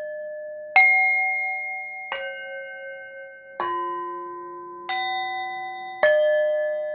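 Metal chimes struck one at a time, five strikes at different pitches about every second and a half, each ringing on under the next.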